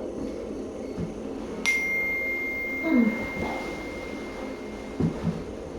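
A sudden metallic ring, then a single clear high tone that holds and slowly fades over about four seconds.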